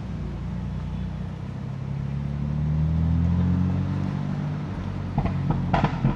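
BMW F80 M3's twin-turbo inline-six accelerating, its note rising for a couple of seconds before easing off, then a quick burst of exhaust pops and crackles near the end as the throttle is lifted.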